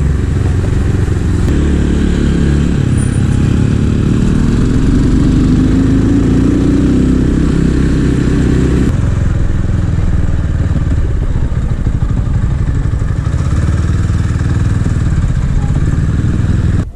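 Small motorcycle engine running under way on a Minsk SCR 250 scrambler, its pitch rising steadily for several seconds, then dropping abruptly about nine seconds in before running on steadily.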